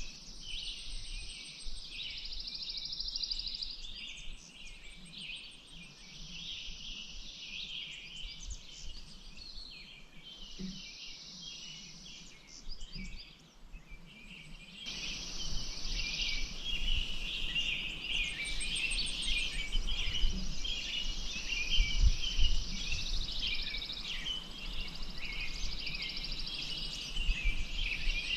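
Chorus of many small birds chirping and singing over one another, with a high, even buzzing trill that comes and goes in stretches of a few seconds. About halfway through, a steady background hiss rises abruptly, with a low rumble beneath.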